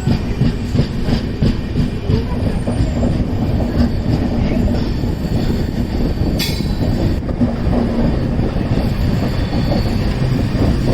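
Passenger train running on the track, heard from on board: a steady rumble of wheels and coaches with rail-joint clicks, and one sharp clack about six and a half seconds in.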